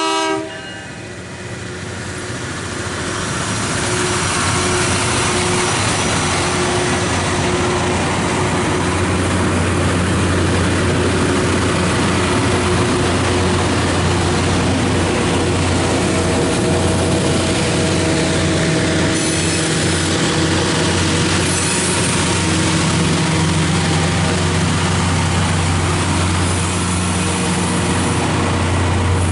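Loram rail grinder train passing close by: the horn cuts off about half a second in. Then the string of diesel-powered grinding cars rolls past with a steady low engine hum and running rail noise, building over the first few seconds and then holding loud.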